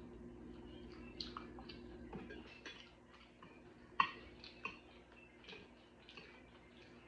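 Close-up eating sounds: chewing with scattered small wet clicks and smacks, the sharpest one about four seconds in.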